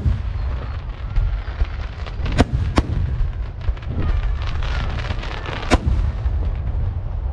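Aerial fireworks display: sharp bangs of shells bursting, two close together about two and a half seconds in and another near six seconds, over a continuous low rumble and crackle.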